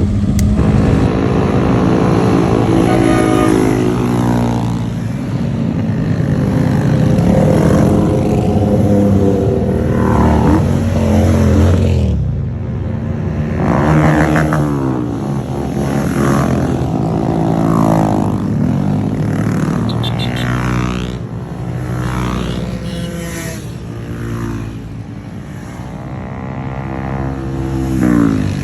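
Several mini bike engines running together in a group ride, revving and accelerating, their pitch repeatedly rising and falling through the gears as the engines overlap.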